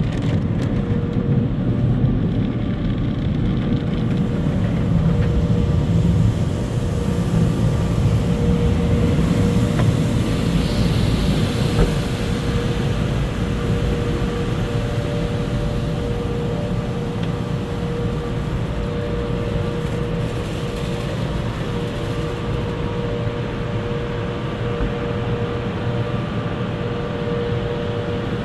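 Automatic tunnel car-wash machinery running, heard from inside the car: a steady rumble and hiss with a constant hum. The hiss swells briefly about ten to twelve seconds in.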